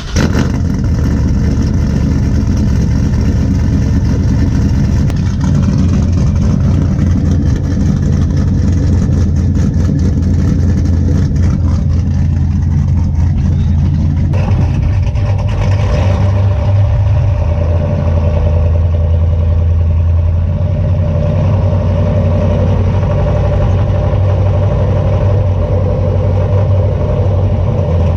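Cammed 6.0-litre V8 of a Chevy Silverado SS with long-tube headers and straight pipes in place of the muffler, catching at the start and idling loud and unmuffled on a cold start. Its note shifts about halfway through, then runs steady.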